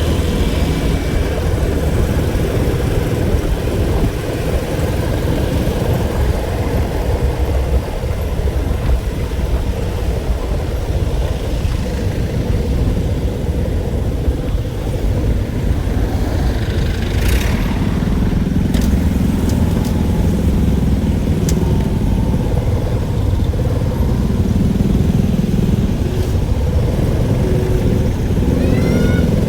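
A vehicle engine running steadily, with a continuous low rumble.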